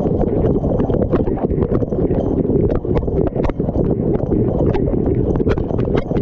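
Dishwasher mid-wash, heard from inside the tub: water spraying and sloshing in a steady churning rush, with frequent irregular clicks and knocks as the spray and water strike hard surfaces.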